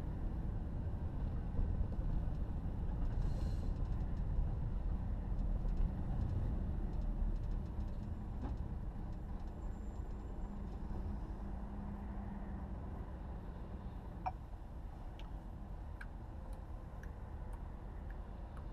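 Road and engine noise inside a moving car's cabin: a steady low rumble that eases slightly in the second half, with a few faint clicks near the end.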